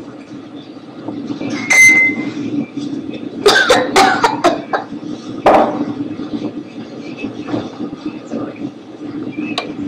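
Steady drone of an airliner cabin in flight. On top of it are a few short, louder sounds: a brief tone about two seconds in, a cluster of sharp sounds around four seconds in, and another near five and a half seconds.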